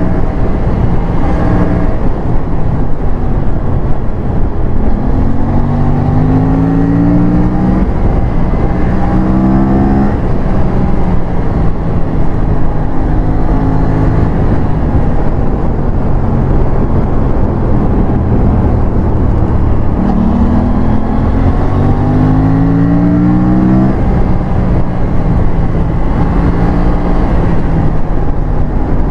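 Aprilia RS457's parallel-twin engine on a hard ride, revving up through the gears: the pitch climbs, drops at each shift and climbs again in runs of rising revs about a fifth and again two thirds of the way through, with steadier running between.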